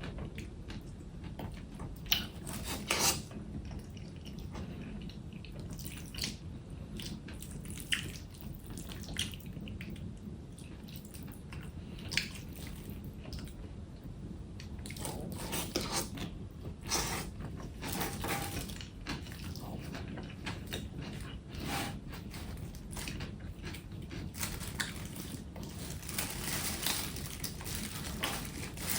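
Close, wet eating sounds of cold dishes such as liangpi noodles and cold salad being eaten: many short clicks and brief wet bursts, irregularly spaced, over a low steady hum.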